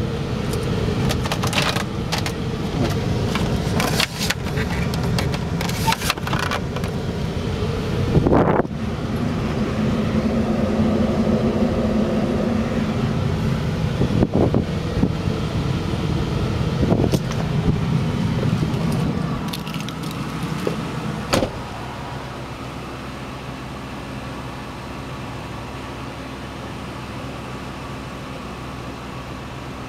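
Large SUV's engine idling, a steady low hum, with knocks and clicks from the camera being handled. About two-thirds of the way through there is a sharp knock, after which the hum is quieter and steadier.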